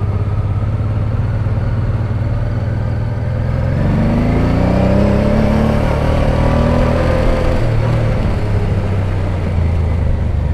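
Motorcycle engine and wind noise while riding, heard from the rider's own bike. About a third of the way in an engine note rises, holds for a few seconds, then eases off.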